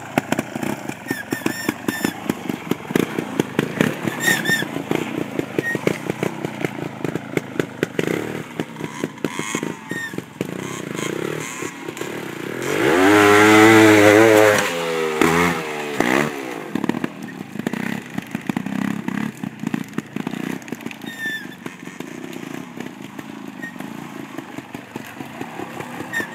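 Trials motorcycle engine chugging at low revs with quick throttle blips as it crawls over obstacles. About halfway through comes one loud rev that climbs and then falls in pitch.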